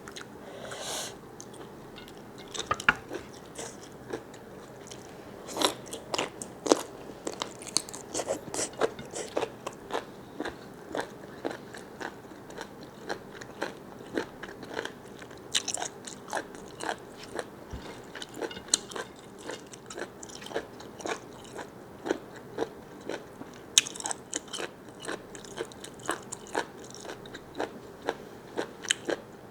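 A person biting and chewing squid close to the microphone: a string of short, irregular clicky mouth sounds, sparse at first and coming thick and fast after a few seconds.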